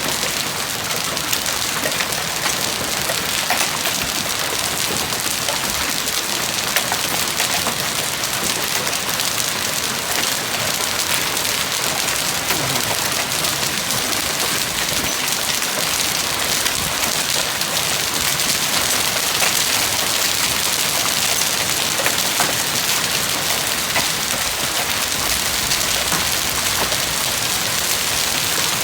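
Hailstorm: hail and heavy rain falling in a dense, steady hiss peppered with many sharp ticks of stones striking.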